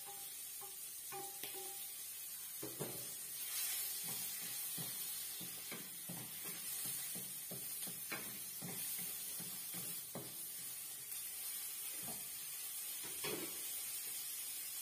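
Lemongrass and chili sizzling in a wok, with a steady hiss. A wooden spatula knocks and scrapes many times as ingredients are scraped in from a steel bowl and stirred.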